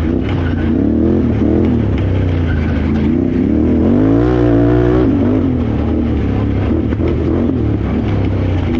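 Can-Am Renegade XXC 1000R ATV's V-twin engine running hard under a racing rider, revs rising and falling about once a second with a longer climb through the middle of the stretch before dropping back.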